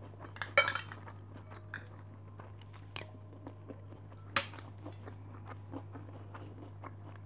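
Close-miked chewing of rice and chicken topped with crunchy fried shallots, eaten by hand. Many small crunches and several sharp clicks, the loudest about half a second in.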